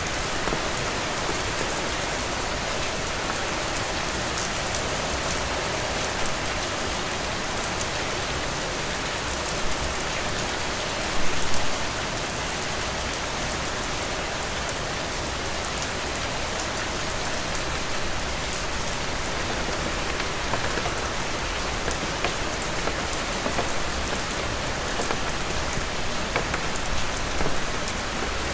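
Heavy rain falling steadily, a dense even hiss with sharp ticks of single drops through it, and a brief louder spell about eleven seconds in.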